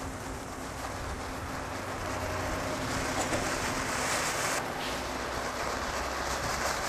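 Firework fountain burning with a steady rushing hiss that slowly grows louder.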